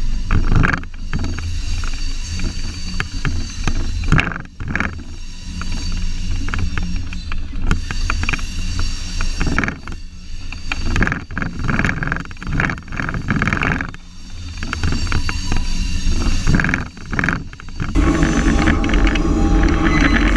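Rumble and clatter of a slow-moving train. About eighteen seconds in, a steady engine hum from the switcher locomotive comes up louder.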